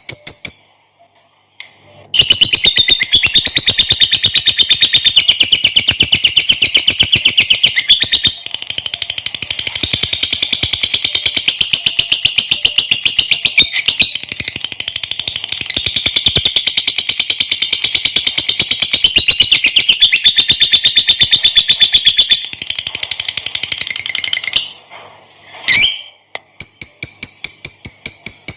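Lovebird giving its long 'ngekek' song, a shrill, very fast chattering trill of evenly repeated notes that runs unbroken for over twenty seconds. It breaks off briefly near the start and again near the end, then starts up again.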